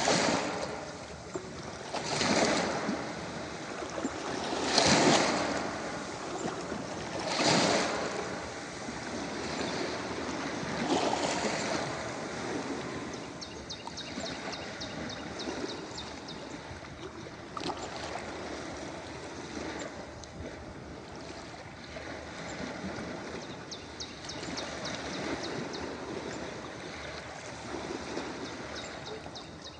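Ocean waves washing onto a beach: several swells of surf in the first dozen seconds, settling into a steadier wash with a faint fizzing crackle.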